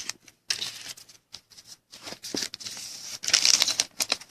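A trading-card pack's wrapper crinkling and tearing as it is opened by hand, in two stretches of rustling with small clicks.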